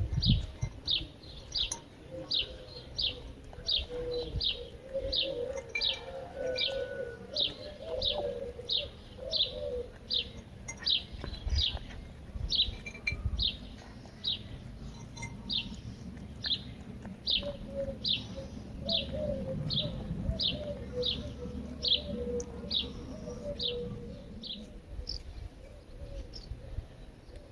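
A small bird repeats a short, high, falling chirp about one and a half times a second. Lower burbling cooing joins in twice, about a fifth of the way in and again past the middle.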